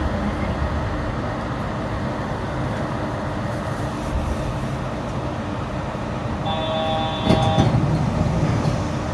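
Yurikamome rubber-tyred automated train running, a steady running noise. About six and a half seconds in, a short electronic tone of several steady pitches sounds for about a second, with a knock under it.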